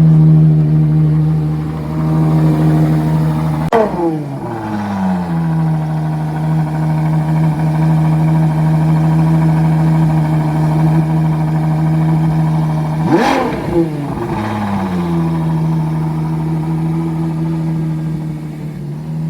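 Ferrari Daytona SP3's naturally aspirated V12 idling steadily, blipped twice: a sharp rev about four seconds in and another about thirteen seconds in, each dropping back to idle within a second or so.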